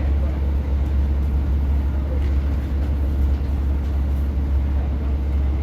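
Interior sound of a Class 150 diesel multiple unit under way: a steady low drone from its underfloor diesel engine, mixed with the rumble of the wheels on the rails.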